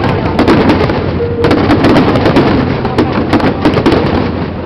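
Aerial fireworks going off in rapid succession: dense, many-times-a-second crackling bangs over a continuous low rumble of booms.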